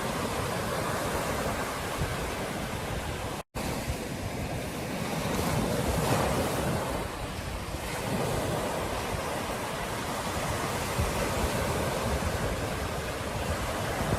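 Ocean surf washing onto a beach in a steady rush that swells and eases, with wind buffeting the microphone. The sound cuts out completely for a split second about three and a half seconds in.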